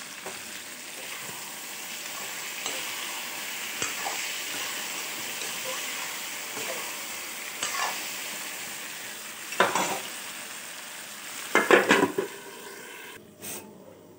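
Chicken, potatoes and tomatoes sizzling as they fry in a metal kadai, stirred with a metal spoon that scrapes and knocks against the pan several times. The loudest clatter comes near the end, just before the sizzling cuts off.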